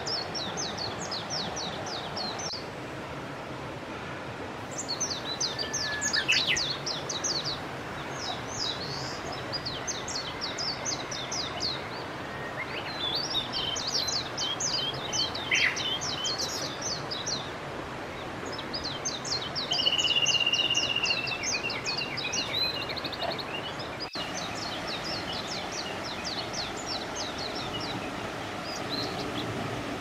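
A songbird singing over and over, each song a quick run of about a dozen short, high notes lasting a second or two, with brief pauses between songs, over a steady background rush.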